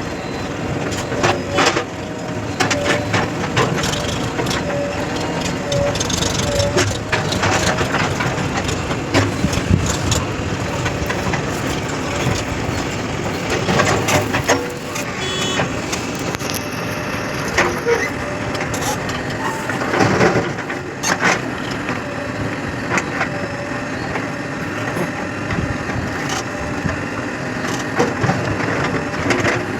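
Diesel engine of a JCB 3DX backhoe loader running steadily as it works, with repeated knocks and clatters scattered throughout, several of them loud.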